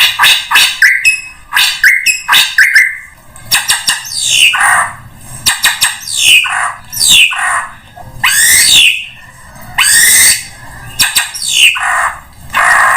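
Drongo calling loudly: a quick run of sharp, clipped notes for the first few seconds, then harsh calls that sweep up and down, repeated about once a second.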